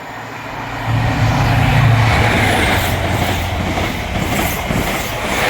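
ScotRail passenger train passing through the station at speed without stopping: a loud rush of wheel and engine noise with a low rumble, building over the first second and staying loud.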